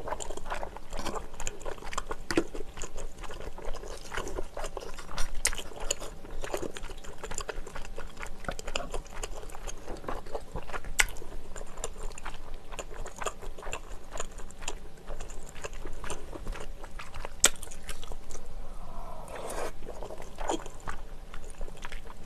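Close-up eating sounds: wet chewing of chewy Chinese glass noodles and seafood in rosé sauce, with irregular mouth clicks and a few sharper clicks.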